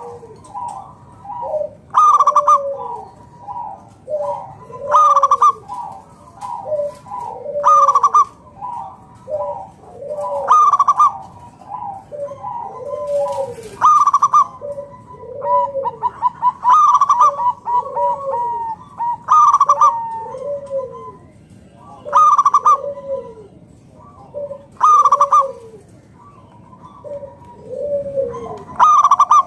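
Zebra dove (perkutut) singing its cooing song over and over: a loud phrase about every three seconds, with softer, quicker coo notes in between.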